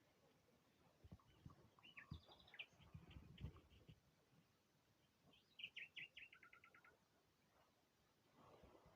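Faint birdsong: two short phrases of rapid repeated chirps, the second stepping down in pitch, with a few low thumps during the first phrase.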